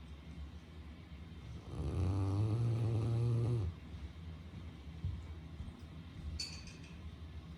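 Great Pyrenees dog snoring in her sleep: one long, low snore that starts a couple of seconds in and lasts about two seconds.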